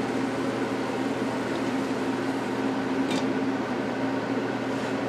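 Liver, onions and bacon simmering gently in a pan over low heat, a steady soft sizzle over a constant low hum, with a brief louder hiss about three seconds in.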